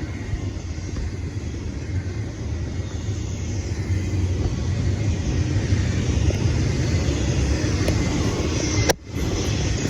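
Steady low rumble of a train running on the line. It cuts out for a moment about nine seconds in.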